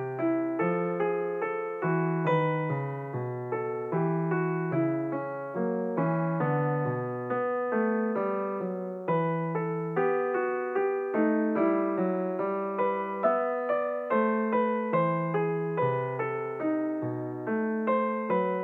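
Background piano music, a steady run of notes that each strike and fade.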